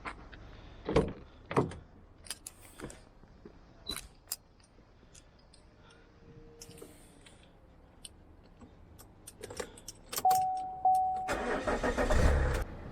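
Clicks and knocks of keys and a car door, then a short steady electronic chime about ten seconds in, followed a second later by a Vauxhall Insignia's engine starting and running.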